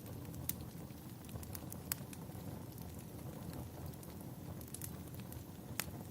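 Wood fire crackling in a fireplace: scattered sharp pops and snaps over a steady low rumble, with the loudest snaps about half a second, two seconds and six seconds in.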